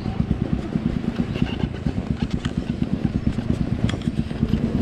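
Off-road motorcycle engine running steadily, with a rapid even pulse.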